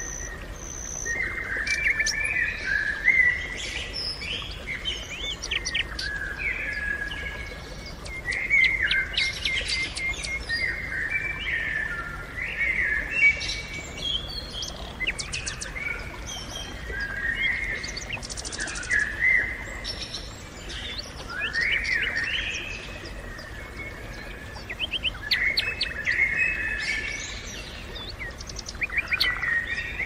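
Small songbirds chirping and twittering in short repeated phrases, several overlapping, over a faint steady low background noise.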